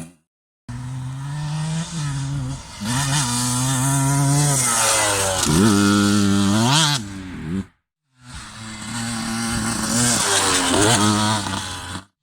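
KTM 125 EXC two-stroke single-cylinder enduro engine running and revving, its pitch climbing and dropping in several sweeps. The sound cuts to silence twice, briefly near the start and again about eight seconds in.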